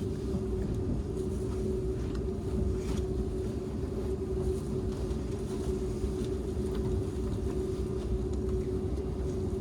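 Steady in-cabin running noise of a Seibu 001 series Laview limited-express train, heard inside an unpowered trailer car: a low rumble with a constant hum and a few faint ticks.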